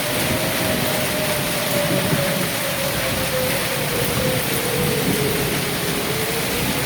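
Steady heavy rain, with a siren's single tone slowly wailing up and down over it.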